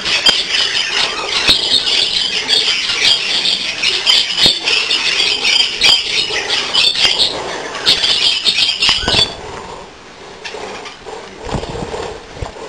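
A flock of budgerigars chattering and warbling in dense, high calls. The chatter cuts off suddenly about nine seconds in, leaving a much quieter stretch with a few light knocks.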